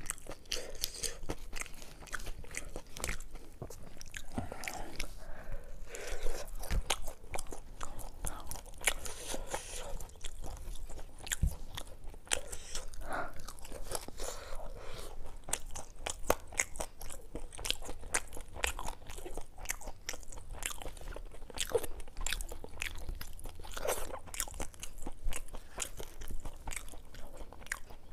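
Close-miked eating of crisp fried fish: continuous crunching and chewing with wet mouth sounds, in dense irregular crackles.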